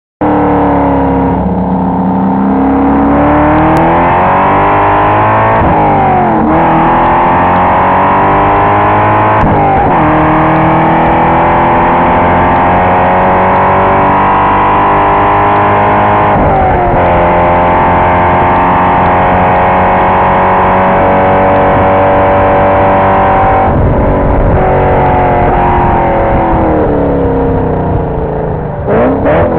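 2005 Cadillac CTS-V's LS6 V8, loud inside the cabin, accelerating hard through the gears: the pitch climbs and drops sharply at three upshifts, holds high down a long straight, then falls away under braking with quick downshifts near the end.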